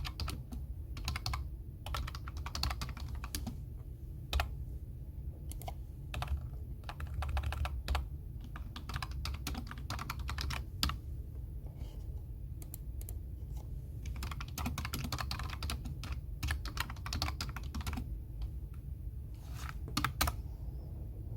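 Computer keyboard typing in bursts of rapid key clicks, with brief pauses between runs, over a low steady hum.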